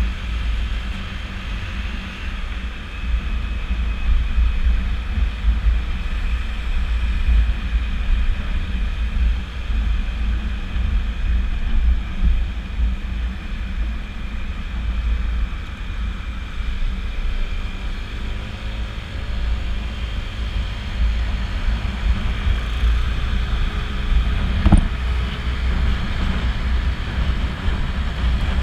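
Steady low rumble and wind rush on the microphone of a Honda PCX scooter riding at speed, with a single brief knock about 25 seconds in.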